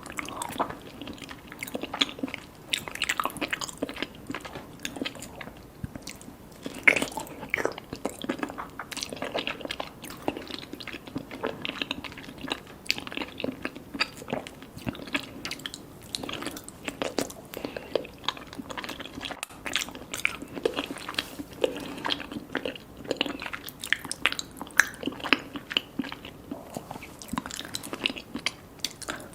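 Close-miked eating sounds: a person biting and chewing soft mango mochi with popping boba, with many irregular sharp, wet clicks and smacks.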